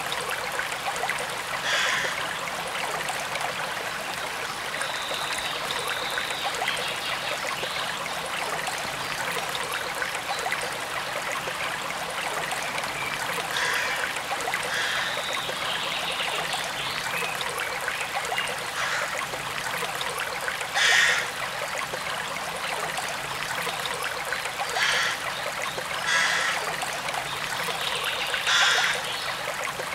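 Forest stream running steadily, with a few short louder splashing surges; the strongest comes about two-thirds of the way through.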